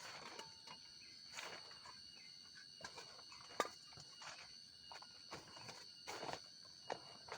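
Campfire crackling with irregular pops and snaps, one sharp pop about three and a half seconds in, over a steady high chirring of night insects.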